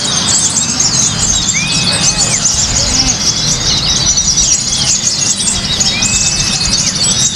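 Many caged songbirds singing at once: a dense tangle of quick, high chirps and trills, with a few longer clear whistles that rise, hold and fall, over a low background rumble.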